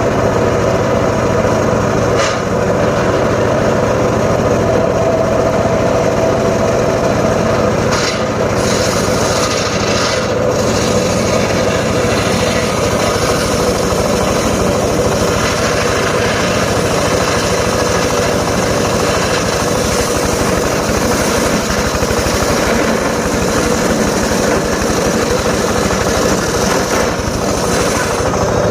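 Engine-driven homemade circular saw running steadily while cutting teak wood, with a few brief sharper knocks from the blade and wood.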